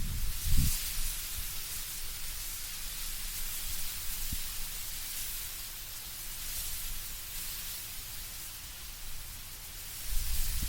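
Wind through autumn trees with leaves rustling: a steady soft hiss, with a low rumble that swells briefly about half a second in and again near the end.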